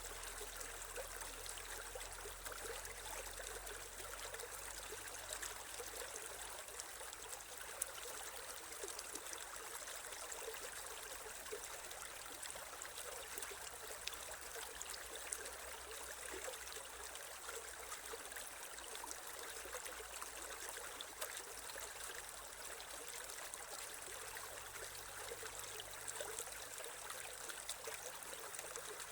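Shallow creek water flowing and trickling steadily, with small splashes and drips over stones.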